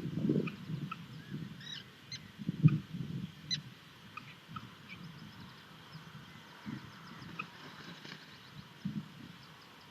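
Irregular bumping and scuffling of a common kestrel and her chicks moving about on the nest-box floor, with a sharper knock about two and a half seconds in. Faint, short, high bird chirps are scattered throughout.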